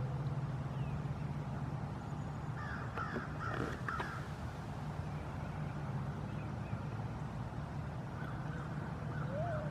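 A crow cawing, a quick run of repeated harsh calls about three seconds in and again near the end, over a steady low hum.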